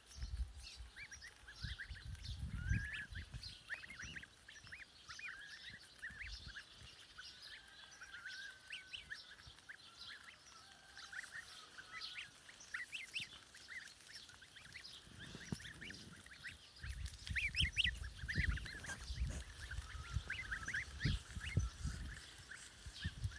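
A flock of domestic waterfowl calling, many short overlapping calls, with low thumps about two seconds in and again through the last few seconds.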